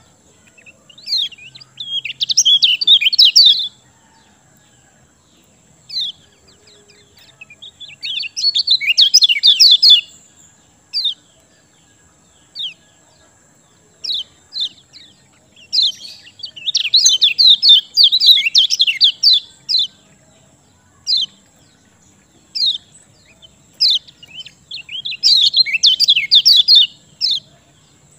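Kecial kuning songbird singing in full: four bursts of rapid, high chattering notes, each a couple of seconds long, with single sharp chip calls between them.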